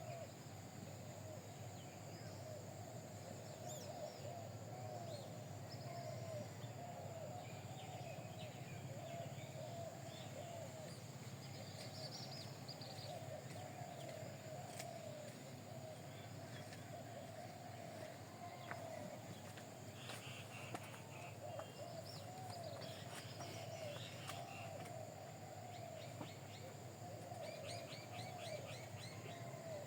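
Several birds calling together: a continuous low warbling coo, with scattered higher chirps and short trills over a steady low hum.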